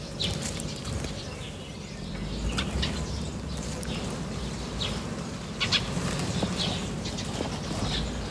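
Small birds chirping: short, scattered chirps now and then, over a steady low rumble.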